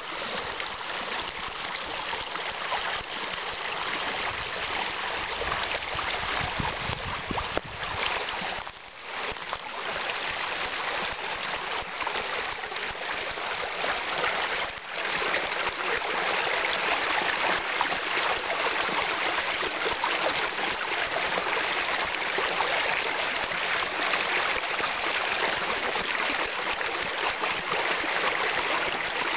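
Spring meltwater stream rushing steadily over a small waterfall. The sound dips briefly twice.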